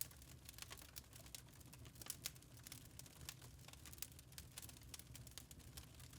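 Wood fire in a fireplace crackling faintly, with irregular small pops over a low steady rumble.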